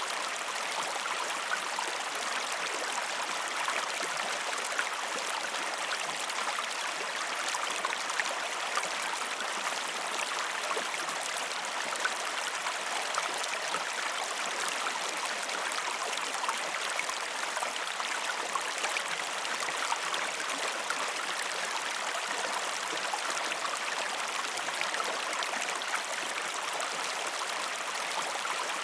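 Running river water: a steady, unbroken rush of flowing water with fine splashing and gurgling in it.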